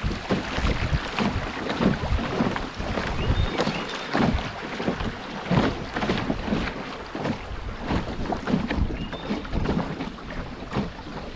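River water splashing and gurgling around a moving canoe, in a constant irregular patter, with wind rumbling on the microphone.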